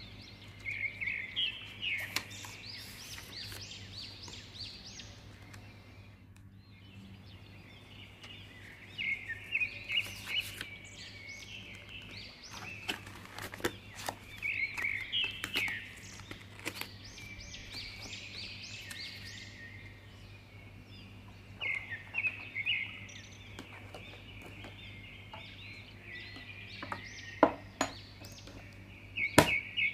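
A small bird chirping in quick trilling bursts every few seconds, over a steady low hum. Scattered sharp clicks and taps come from paper cards being handled.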